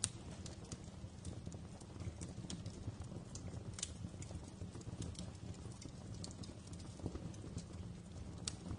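Wood fire burning in a fireplace: a steady low rumble of flame with irregular sharp crackles and pops, the loudest about four seconds in and near the end.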